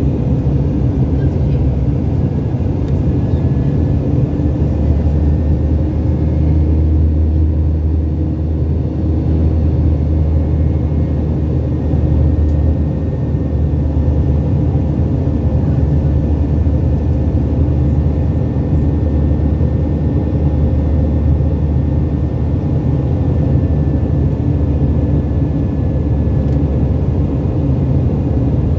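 Steady low rumble of an airliner's engines and airflow heard from inside the passenger cabin, with a faint thin whine above it.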